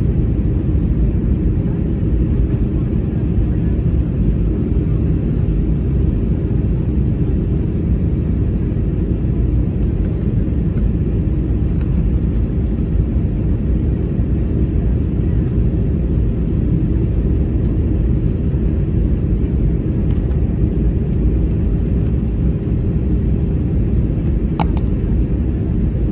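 Airliner cabin noise: the steady low roar of engines and airflow heard from inside the passenger cabin, with two brief sharp clicks near the end.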